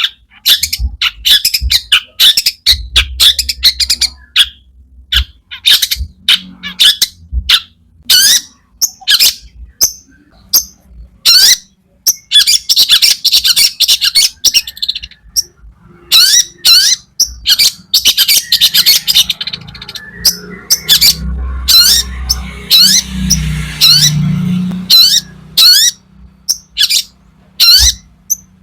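A long-tailed shrike (cendet) sings loudly in a rapid string of sharp, rising, squawking notes, with stretches of dense chattering between them.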